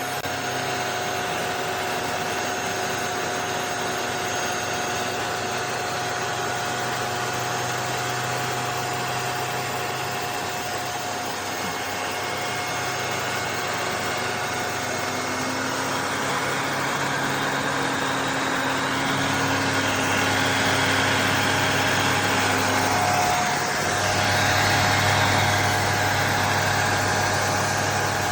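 HYCHIKA 16 kPa handheld mattress vacuum running steadily, a motor whine over a rushing air noise. Its low hum shifts about two-thirds of the way through and dips briefly a few seconds later, as the load on the motor changes.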